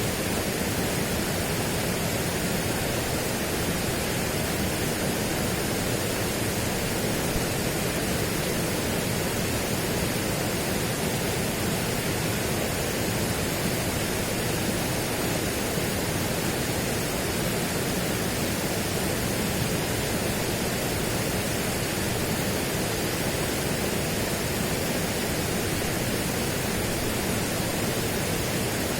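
Steady, even rushing noise spread across all pitches, with no distinct events or changes.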